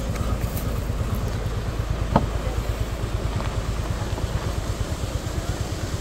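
SUV engine running steadily with a low, even throb and no revving, with a single sharp click or knock about two seconds in.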